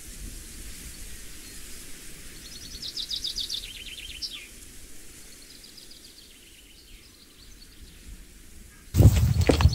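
A songbird sings trilled phrases that step down in pitch, with a fainter second phrase after it, over a steady hiss of outdoor background noise. Near the end a sudden, much louder rush of noise with sharp clicks cuts in.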